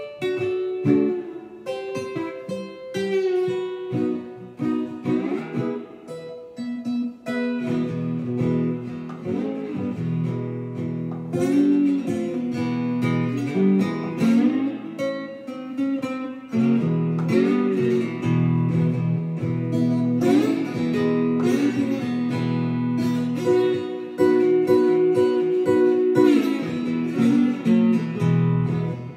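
Slide guitar blues in E played on an Ovation resonator guitar: plucked notes and chords, with pitches sliding between notes.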